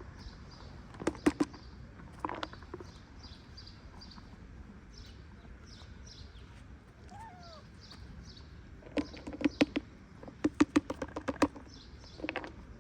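Small high chirps repeat steadily, about three a second, like birdsong. Clusters of sharp clicks come about a second in and again in a quick run from about nine seconds in.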